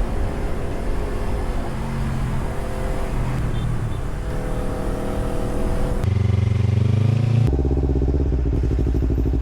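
Motorcycle engine running at low revs, its pitch shifting a little, then changing abruptly about six seconds in and again a second and a half later before settling into a steady, evenly pulsing idle.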